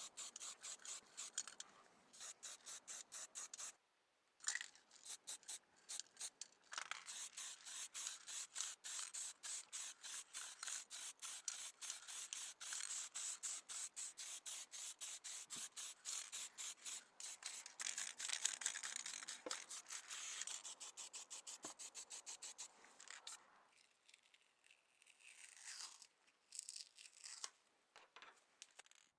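Rapid back-and-forth rubbing strokes on a small model car's body, about four to five a second, with a short pause about four seconds in. The strokes grow sparser and fainter in the last few seconds.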